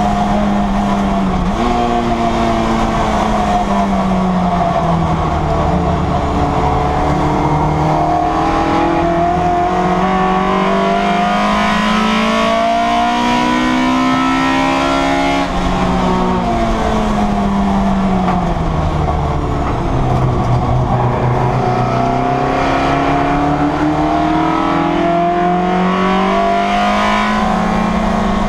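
Citroen Saxo race car's four-cylinder engine heard from inside its stripped cabin, revs climbing under acceleration and sagging away again through a lap, with a sudden drop in pitch at a gearchange about halfway through.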